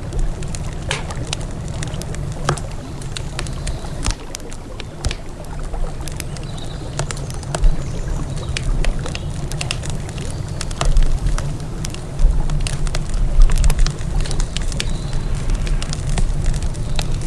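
Wood campfire crackling, with frequent sharp pops and snaps, over a steady low rush of flowing river water that swells louder in the second half.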